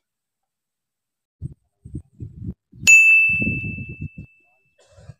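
A single clear bell-like ding about three seconds in, ringing out and fading over about two seconds. Low knocks and bumps come before and after it.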